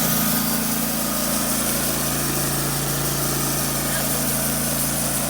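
Wood-Mizer LT15 Wide portable sawmill's engine running steadily at an even pitch.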